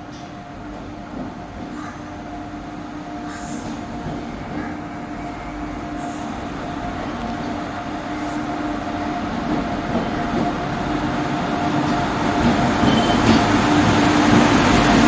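A train approaching, growing steadily louder: a rumble of running gear with a steady hum from the locomotive.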